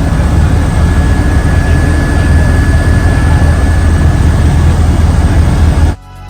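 Helicopter engine and rotor noise, loud and steady with a deep low drone, cutting off abruptly near the end.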